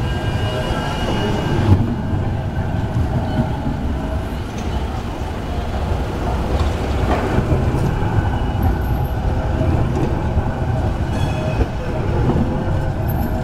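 Tram running on its rails: a steady low rumble with a few brief high-pitched wheel or motor whines, near the start and again late on.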